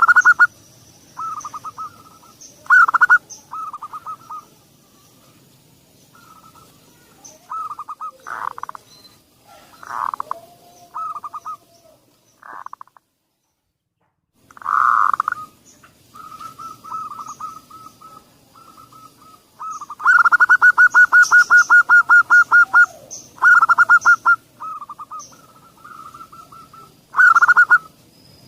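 Zebra dove (perkutut) song: repeated soft, staccato cooing phrases, with a long run of rapid, evenly spaced notes about two-thirds of the way through. It breaks off to near silence for about two seconds in the middle, and faint thin high tones sound behind it.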